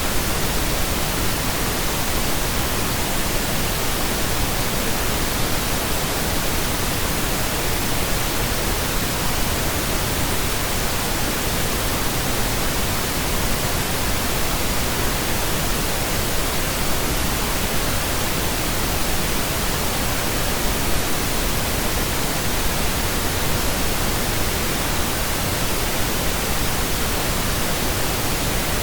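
Steady synthetic pink noise: an even, unchanging hiss spread across all pitches, with no tones or events in it.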